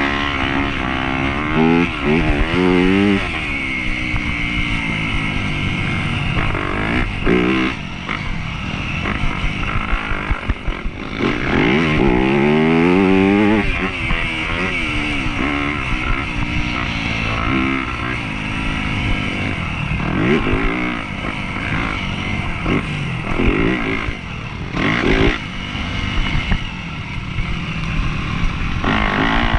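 Dirt bike engine being ridden hard, revving up and dropping back again and again as it is throttled and shifted, with long climbs in pitch about two seconds in and again around eleven to fourteen seconds.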